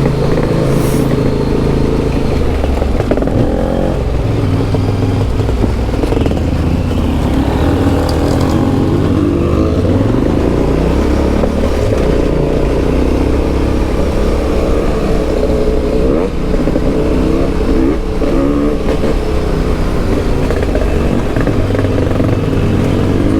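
Yamaha Ténéré 700's 689 cc CP2 parallel-twin engine running under way through an Akrapovic exhaust, its note rising and falling with the throttle.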